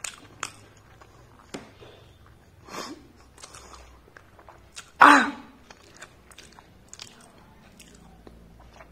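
Close mouth sounds of a person chewing the last bites of onion pakora (piyaji), with scattered small clicks. One louder, short throat sound comes about five seconds in.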